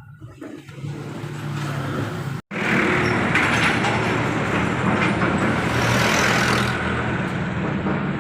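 Truck engine running steadily and getting louder. It cuts out abruptly for an instant about two and a half seconds in, then comes back louder with more hiss and noise.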